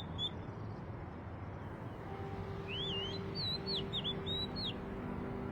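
A small songbird chirping in quick whistled notes that swoop up and down: a short run right at the start, then a longer string of chirps about three to five seconds in, over a steady soft outdoor hiss.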